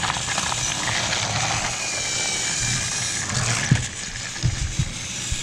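Battery-powered TrackMaster toy engines, Percy among them, running along plastic race track: a steady motor whir and wheel rattle, with a few sharp clacks about four seconds in.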